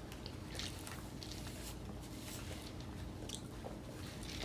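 Faint chewing and small mouth clicks of people eating, over a low steady room hum.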